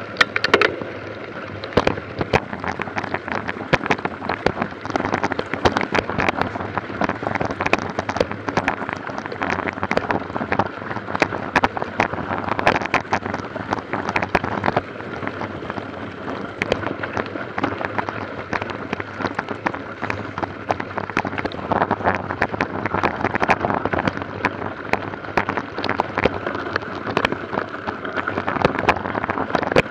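Dense, irregular rattling and crackling over a steady rushing noise, as from a mountain bike ridden over a rough, sandy track: tyres crunching and the bike rattling.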